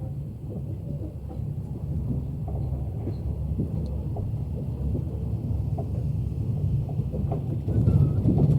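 Train running on the rails: a steady low rumble with scattered knocks and clatter, a little louder near the end.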